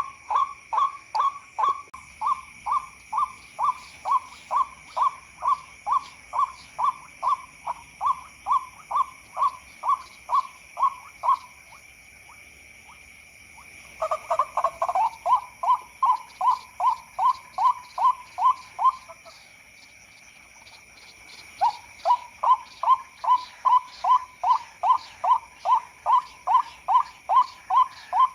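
White-breasted waterhen (ruak-ruak) calling, used as a lure: a fast series of clipped repeated notes, about three a second, breaking off twice for two or three seconds. A steady high-pitched drone runs underneath.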